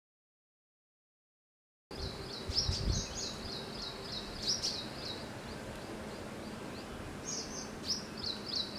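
Silent for about the first two seconds, then a steady outdoor hiss with clusters of quick, high-pitched chirps from a small bird, coming fastest near the end.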